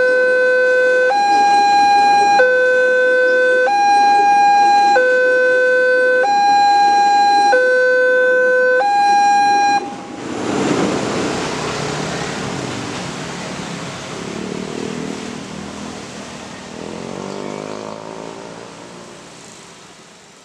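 Electronic railroad level-crossing alarm sounding its two-tone warning, alternating between a low and a high tone about every 1.2 seconds, then stopping about ten seconds in. After it, a rush of road traffic noise fades gradually, with a vehicle engine rising in pitch near the end.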